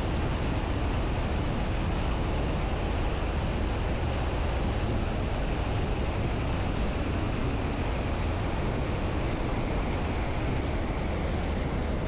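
Piper Archer PA-28-180's four-cylinder Lycoming O-360 engine and propeller running steadily, a constant drone with airframe noise.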